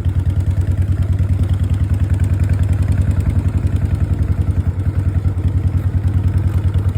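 Harley-Davidson V-twin motorcycle engine running steadily at a constant speed, its exhaust beat making an even, rapid pulsing.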